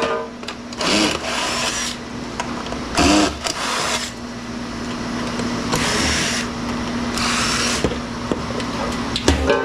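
A power tool running in short bursts, about four times, each half a second to a second long with a faint rising whine as it spins up.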